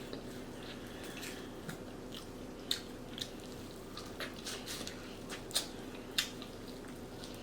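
Close-up eating sounds of a person chewing seafood boil, with wet mouth clicks and smacks scattered through, three of them sharper than the rest.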